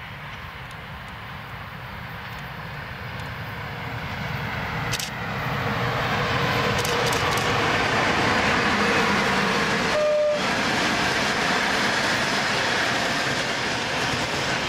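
Regional passenger train of blue double-deck coaches passing on electrified track. The rumble of its wheels on the rails grows louder from about four seconds in and stays loud, with a few sharp clicks over rail joints and a brief single tone about ten seconds in.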